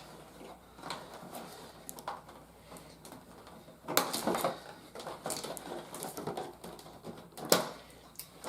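Rustling and clicking of plastic toy parts and packaging being handled, with louder crinkles about four seconds in and near the end.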